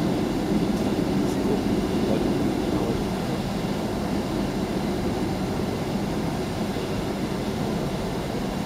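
Steady low rumble inside the cabin of a Boeing 757-200 as it taxis on the ground, the engines running at low thrust while the airframe rolls along.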